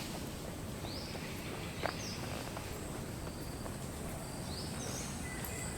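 Outdoor ambience: a steady hiss with a faint high whine, and a handful of short, high, gliding chirps scattered through it. A single sharp click falls about two seconds in.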